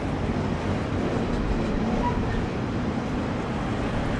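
Diesel-hauled freight train running: a steady, even rumble with a low hum.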